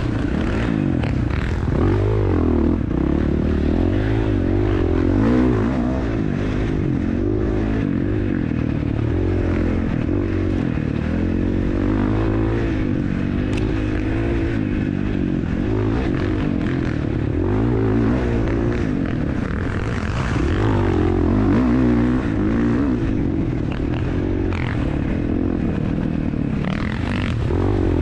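Dirt bike engine being ridden hard, revving up and down as the rider accelerates and backs off, its pitch rising and falling every second or two.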